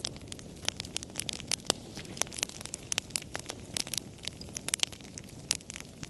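Campfire crackling: irregular sharp pops and snaps, several a second, over a low steady hiss of the fire.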